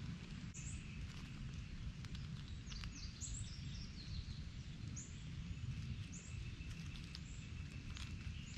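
Outdoor ambience with a steady low rumble, and small birds giving several short, high chirps that drop quickly in pitch. A faint, steady high whine comes in about halfway through.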